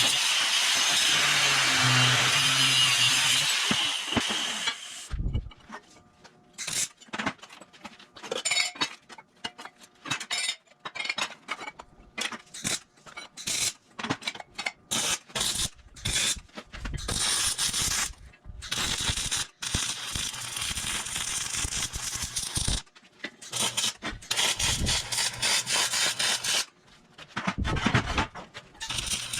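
A power tool runs steadily for about four seconds, then stops. It is followed by many short, broken bursts of scraping and rubbing, as of hand work on steel.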